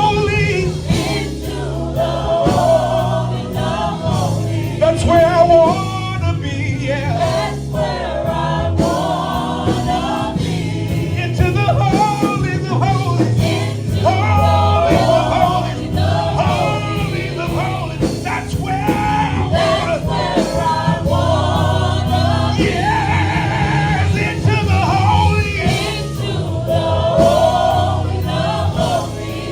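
Gospel worship music: a choir and congregation singing over a steady band accompaniment.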